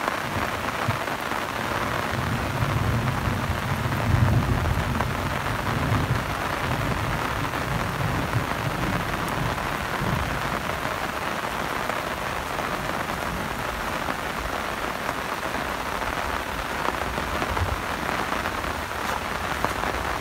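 Steady rain falling on the ground and vegetation, with a low rumble that swells a few seconds in.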